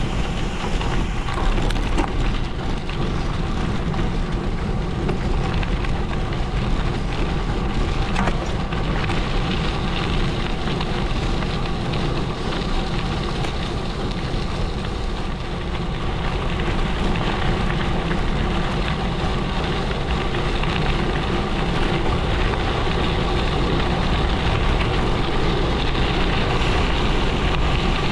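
Gravel-bike tyres rolling over a gravel road: a steady crunching, crackling hiss.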